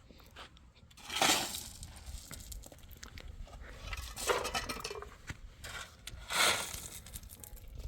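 Hard objects knocking and scraping together, with two louder rasping scrapes, one about a second in and one about six seconds in, and lighter clinks between them.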